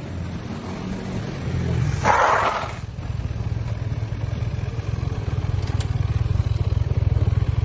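Motorcycle engine idling, a low rumble with rapid, even pulsing, with a brief louder rush of noise about two seconds in.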